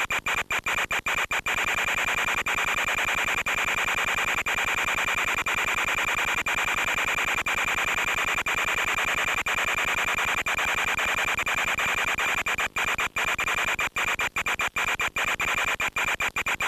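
Hissing static with a steady high whine from an FPV aircraft's analog radio video link, broken by many brief dropouts that cluster near the start and toward the end.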